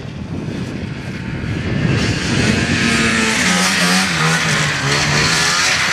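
Snowmobile engine running, getting louder about two seconds in, its pitch shifting down and back up as the throttle changes.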